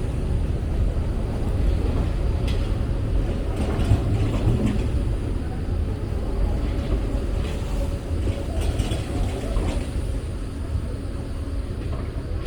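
Rainy city ambience: a steady low rumble of traffic under a light hiss of rain, with a few faint clicks scattered through it.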